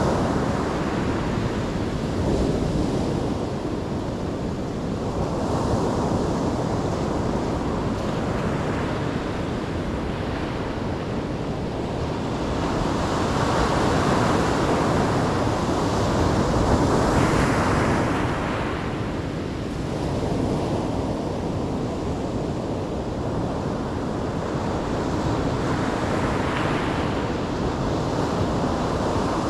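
Ocean waves breaking and washing on shore, a continuous surf rushing that swells and eases every few seconds, with a stronger surge about halfway through. Some wind noise on the microphone.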